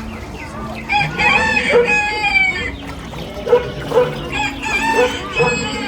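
Recorded farmyard sound effects played through the ride's speakers: a rooster crowing twice, with shorter clucking calls in between.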